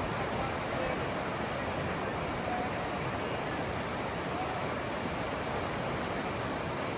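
Matanuska River water rushing, a steady, even roar.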